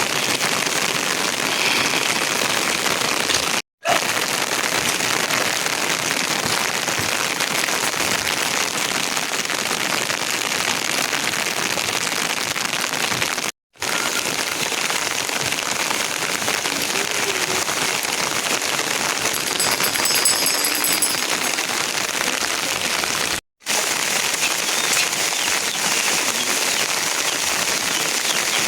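Heavy rain falling steadily, a dense crackling hiss of drops. It drops out to dead silence for a split second three times, about ten seconds apart.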